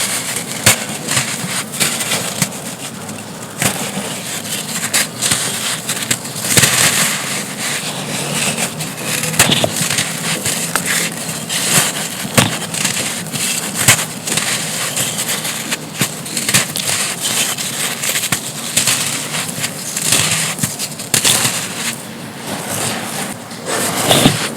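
Dry, crispy round chunks of pure sand crumbling and crushing, a dense irregular crackle of many sharp little cracks and gritty crunches.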